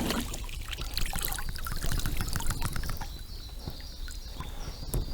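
Water trickling and splashing with small irregular clicks and knocks as a just-caught small carp is landed into the boat.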